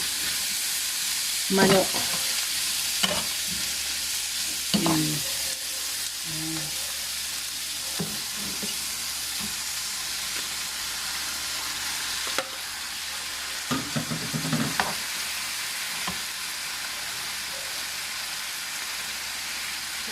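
Chicken pieces sautéing in a hot pan with onion, chorizo and chicken liver: a steady sizzle, with a few brief clicks from the stirring.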